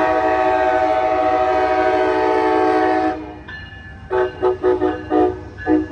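Amtrak passenger locomotive's multi-note air horn sounding one long blast that cuts off about three seconds in, then a quick series of short blasts, a horn show from the engineer. A steady low rumble of the passing train runs underneath.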